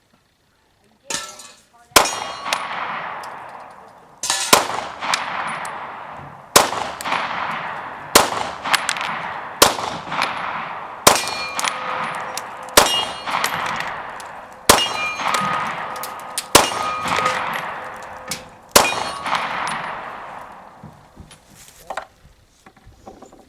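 An FMK 9C1 9mm pistol firing Hornady Zombie Max 115-grain rounds: about ten single shots at a slow, even pace, every second or so, each followed by a ringing decay. The string stops a few seconds before the end.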